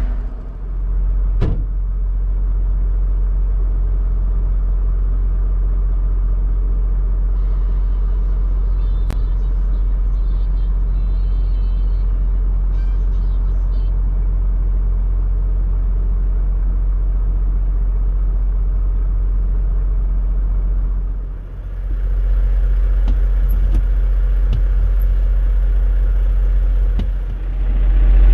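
Steady low rumble of a semi truck's diesel engine and drivetrain heard inside the cab.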